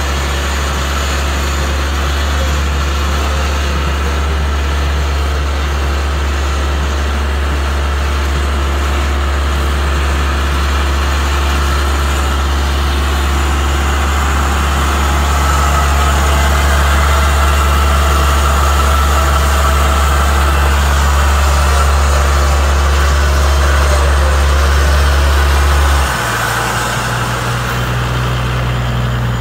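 A vehicle's engine running steadily with a loud, low drone. Near the end the drone drops away and a steady hum at a higher pitch takes over.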